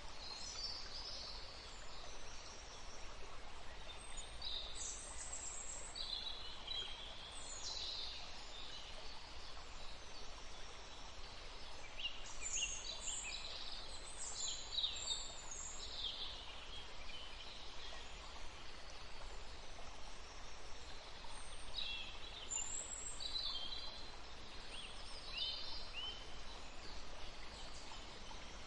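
Birds singing in spells of quick, high chirps and trills over the steady hiss of a forest stream.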